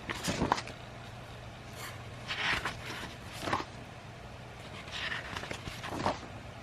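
Paper rustling in short bursts, about five times, as sheets of old drawings are handled and turned over, over a faint steady low hum.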